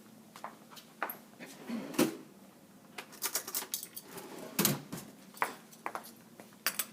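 Light clinks and taps of metal tablespoons being handled and set down on a hard kitchen surface: scattered single taps, with a quick run of clicks in the middle.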